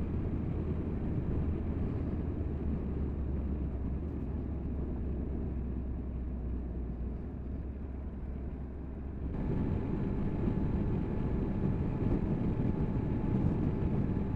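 Triumph Tiger 1200's three-cylinder engine droning with wind noise as the motorcycle rides along, heard from the on-bike action camera. About nine seconds in, the sound shifts abruptly and turns louder, and a thin steady whine joins it.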